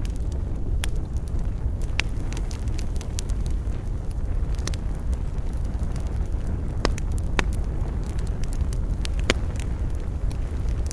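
Wood campfire burning with a steady low rumble and scattered sharp crackles and pops, a few louder snaps among them.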